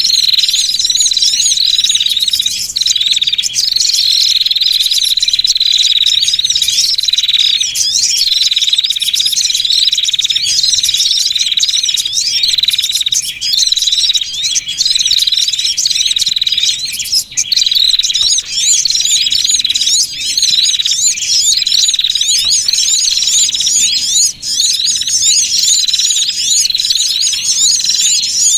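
Bird-lure recording of small songbirds: a dense, unbroken chorus of rapid high chirps and trills over a steady high whistling note, played to call small birds in.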